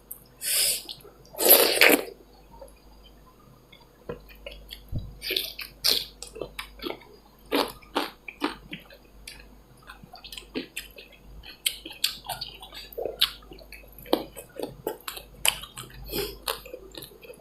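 Wet eating sounds of dal bhat with chicken: scattered chewing and lip-smacking clicks, with two louder breathy bursts in the first two seconds.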